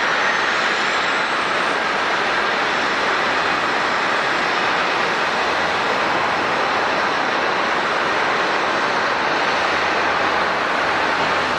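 Airbus A350 jet engines giving a loud, steady rush of noise, with a faint high whine rising over the first few seconds.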